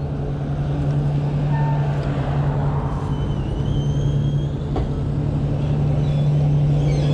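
A road vehicle passing close by, its noise swelling and fading over a few seconds, over a steady low hum and road noise from the moving e-bike.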